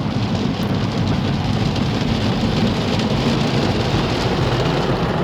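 Automatic car wash pouring water and scrubbing over a car, heard from inside the cabin: a steady rushing like heavy rain, with a low rumble underneath.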